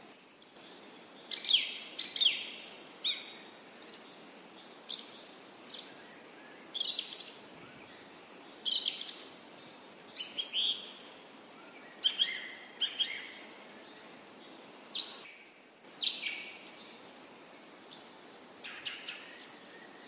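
Birds chirping and singing: many short, high chirps, some sliding downward, one or two a second, over a faint steady hiss, with a brief gap about fifteen seconds in.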